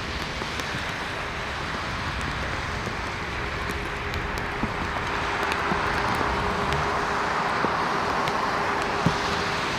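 Boeing 737 MAX 8's CFM LEAP-1B jet engines at takeoff power: a steady roar that swells about halfway through, with a steady tone running underneath.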